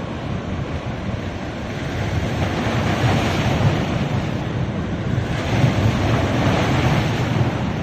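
Sea waves washing onto a beach, swelling twice as waves break, about three seconds in and again near the end.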